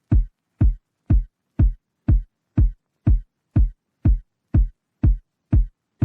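Music: a lone electronic kick drum beating steadily about twice a second. Each hit is deep and drops quickly in pitch, with silence between the hits.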